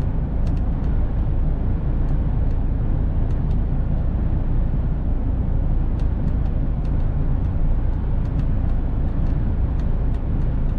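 Mercedes-Benz Actros truck on the move: a steady low diesel engine and road rumble, with faint scattered ticks.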